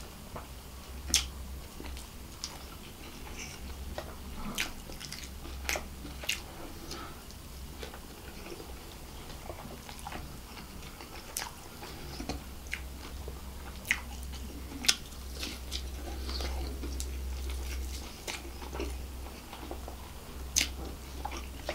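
Close-miked eating: a person chewing and biting into crispy fried chicken and biryani rice, with sharp, irregular crunches and mouth clicks scattered through.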